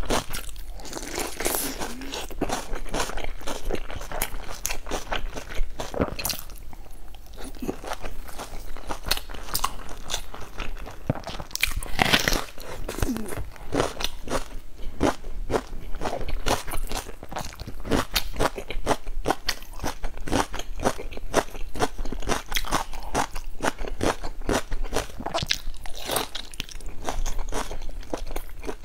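A person biting into and chewing large pleated dumplings, a fast run of mouth clicks and chewing noises.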